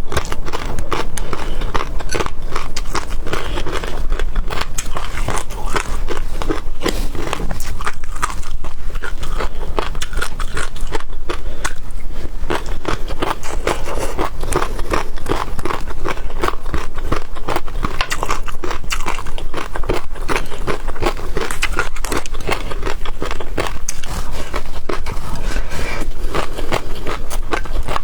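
Close-miked eating of seafood: continuous biting and chewing with a dense stream of wet crackles and clicks.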